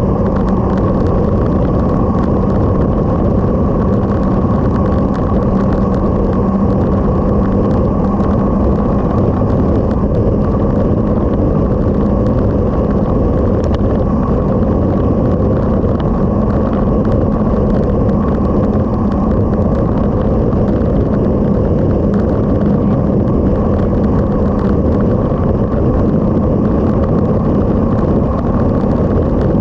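Motorcycle under way at a steady cruising speed, its engine holding one steady note under heavy wind rush on the microphone.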